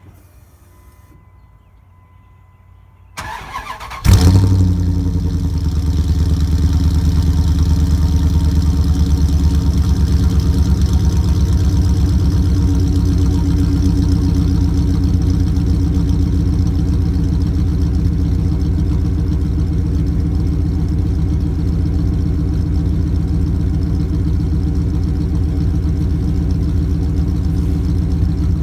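Cold start of a 5.9-litre V8: the starter cranks for about a second, the engine catches with a brief loud flare about four seconds in, then settles into a steady idle.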